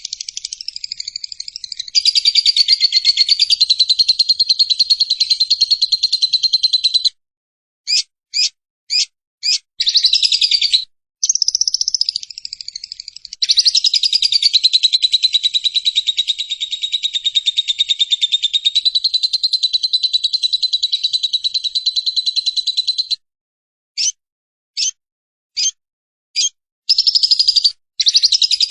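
Lovebird ngekek: a long, unbroken, rapid high-pitched chattering trill held for many seconds at a time. Two long runs are broken by pauses with a few short separate chirps.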